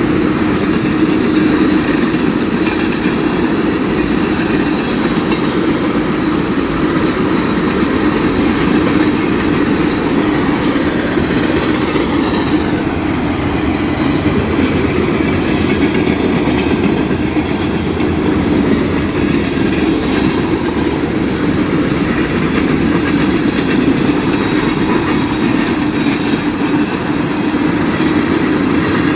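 Freight cars of a BNSF manifest train rolling past, a loud, steady noise of steel wheels on rail.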